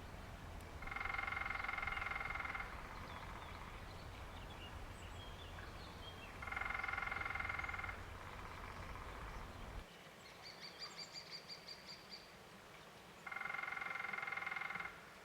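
Woodpecker drumming: three rapid rolls of about a second and a half each, spaced about six seconds apart, each ringing with a pitched tone. Between the second and third roll comes a quick series of about ten short, high notes.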